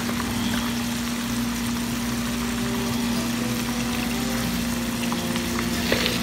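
Sliced bitter gourd cooking in a pan: a faint sizzle over a steady low hum, with a light spatula click near the end.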